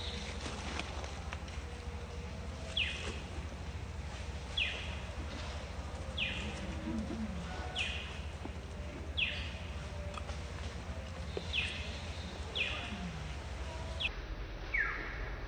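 A bird repeating a short, falling call every one to two seconds, over a steady low rumble.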